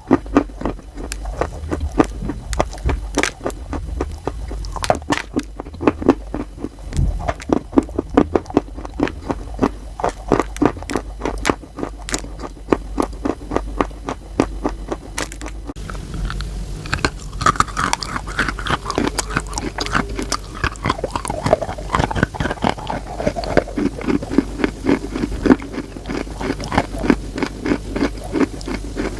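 Close-up crunching and chewing of wet chalk: a dense run of quick, irregular crackling bites, with the sound turning denser and noisier about halfway through.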